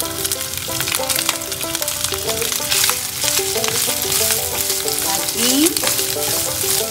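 Pieces of textured soy protein sizzling and crackling in hot sunflower oil with onion in a frying pan as they are tipped in and stirred with a wooden spoon.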